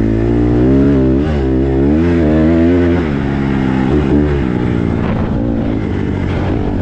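Small single-cylinder four-stroke dirt bike engine being ridden, its pitch rising and falling with the throttle for the first few seconds, then running rougher and steadier near the end.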